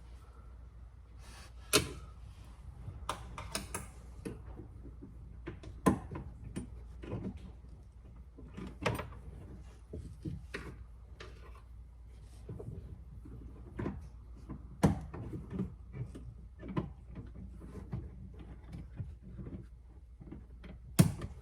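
Irregular clicks and knocks of hands working inside a car door, reconnecting the outside door handle's lever rod, with a few sharper knocks standing out.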